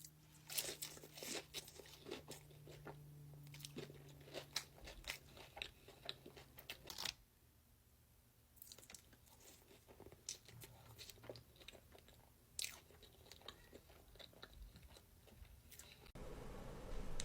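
Crunchy food being bitten and chewed close to the microphone: runs of sharp crunches with a short pause about seven seconds in.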